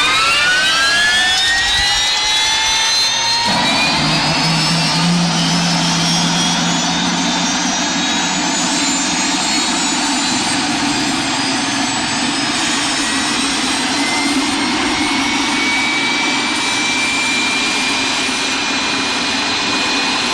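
Jet engine spooling up: a whine with several pitches climbs over the first few seconds, then holds as a steady high whine over a rushing roar. A low hum joins about three and a half seconds in and fades out a few seconds later.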